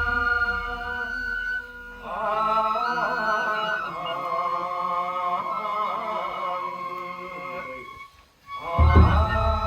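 Nenbutsu kenbai dance music: long, wavering chanted notes held over several seconds. Near the end, after a brief drop, a burst of drum beats comes in under the chant.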